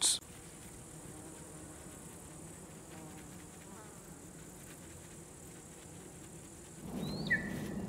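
Faint, steady buzzing of flying insects in forest ambience. About seven seconds in the background grows louder and a bird chirps twice, short and high.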